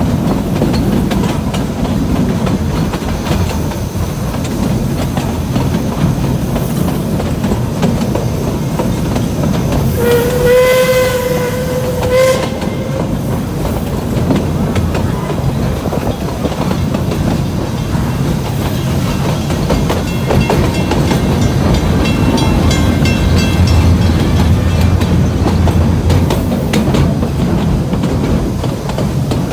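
Running noise and clickety-clack of a moving heritage train's carriages, heard from an open carriage window. About ten seconds in, the locomotive's whistle sounds once for about two and a half seconds.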